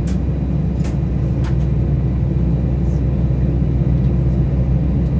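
Steady low rumble of cabin noise inside an Airbus A320 while it taxis, with a few faint clicks in the first second and a half.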